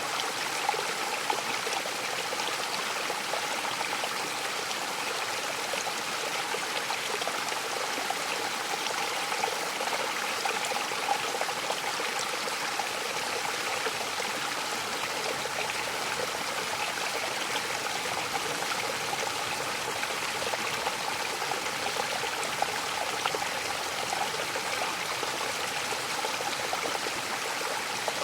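Mountain waterfall: water falling and splashing in a steady, even rush, with small splashes flecking the surface.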